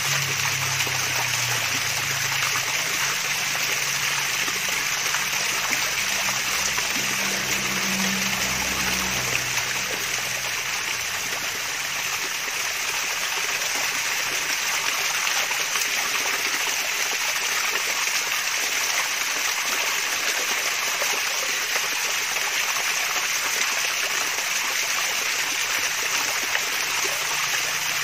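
Water from a mini waterfall splashing and trickling steadily.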